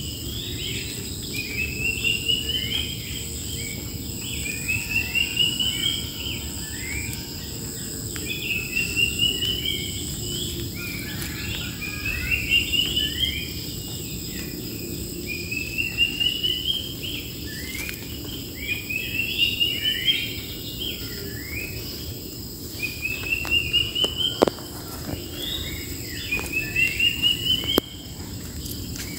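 Wild birds singing: one bird repeats a short run of quick notes that climb in pitch every few seconds, with other chirps between, over a steady high-pitched insect drone. A single sharp click comes near the end.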